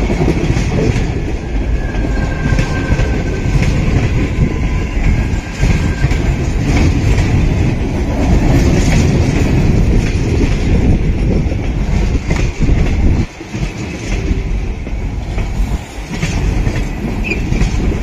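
Passenger train coaches rolling past close by at speed: a steady loud rumble of wheels on the rails with rhythmic clickety-clack over the rail joints. A faint high wheel squeal sounds for a few seconds near the start, and the rumble briefly dips a few times in the second half.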